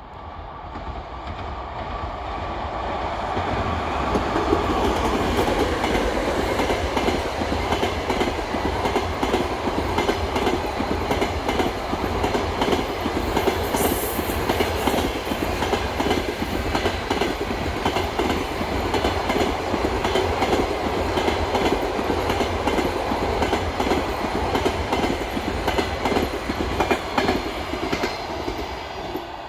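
Passenger train hauled by an EP2K electric locomotive passing close by: wheels clattering over the rail joints over a steady rush of running noise. It builds over the first few seconds, then holds as the carriages go by.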